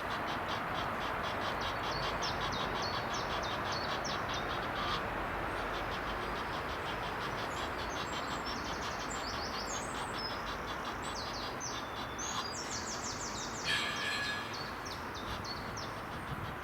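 Small songbirds singing in short, high phrases, many of them falling in pitch, over a steady background hum; the first few seconds hold a fast, even high ticking, and a brief louder rustle-like burst comes near the end.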